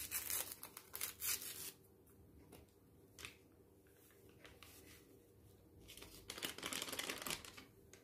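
Rustling and crinkling from something being handled, in two spells of about two seconds each, one at the start and one about six seconds in, with a single click in between.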